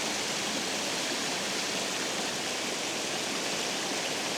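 Water rushing steadily over a spillway, an even hiss with no change in level.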